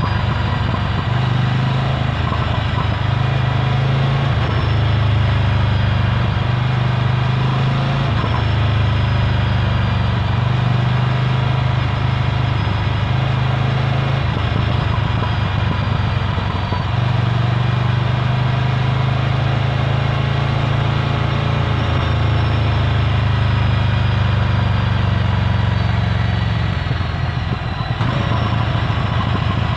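Ducati Scrambler Full Throttle's air-cooled L-twin engine through its Termignoni exhaust, running at low, fairly steady revs. The engine note rises and dips a little a few times.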